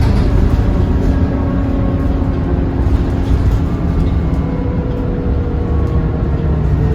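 Scania K230UB city bus under way, heard from inside: a steady low engine drone with road rumble. In the second half a whine eases slowly down in pitch.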